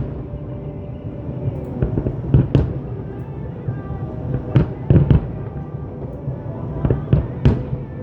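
Aerial fireworks shells bursting in a string of sharp bangs, about eight over several seconds, some in quick pairs and triples, over the music accompanying the show.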